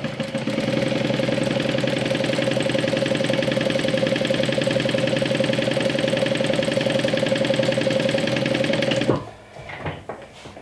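Juki DU1181N industrial walking-foot sewing machine stitching a seam at a steady speed, a hum with a fast, even stitch rhythm. It picks up speed about half a second in and stops suddenly near the end, followed by faint fabric rustling.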